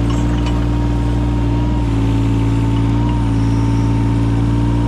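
Yanmar 017 mini excavator's diesel engine running steadily under the hydraulics, its pitch dipping briefly a couple of times.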